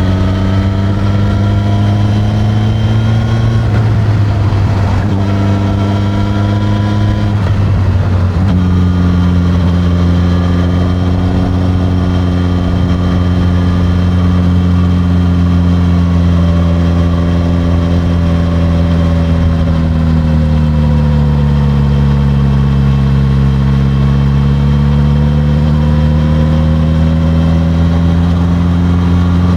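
Suzuki GSX-S1000 inline-four engine through its stock exhaust, under way. It pulls up through the revs twice with sharp drops at the gear changes about 4 and 8 seconds in, then cruises at steady revs. It eases off around two-thirds of the way through and picks up again near the end.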